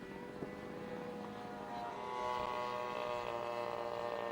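Radio-controlled model aircraft engine running steadily, growing a little louder about two seconds in.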